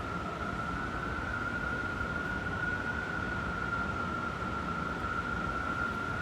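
Strong wind howling: one steady, slightly wavering high howl over a continuous low rushing noise.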